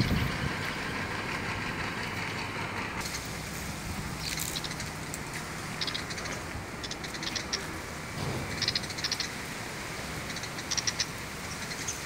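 A small bird chirping in short bursts of quick, high chirps every second or two, over a steady low hum.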